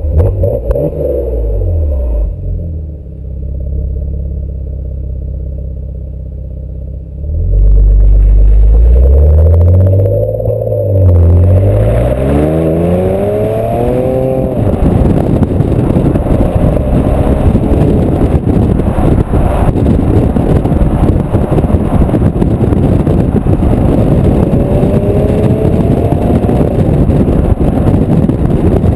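Porsche Macan Turbo's twin-turbo V6 with sport exhaust. At first it runs with a deep rumble, swelling loudly after several seconds. About halfway through, the engine note climbs in pitch under hard acceleration, then gives way to dense, loud rushing noise while driving, with one more short rise in pitch near the end.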